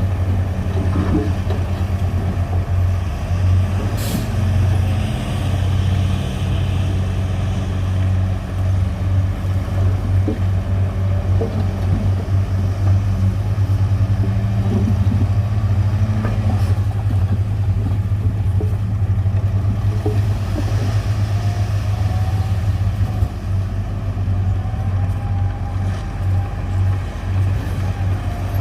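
Heavy diesel engine of earthmoving machinery running steadily, with scattered knocks and one sharp click about four seconds in.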